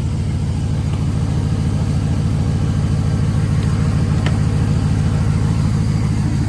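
Engine of a 'cat eye' Chevy truck idling steadily with a fast, even low pulse, freshly started after a jump start.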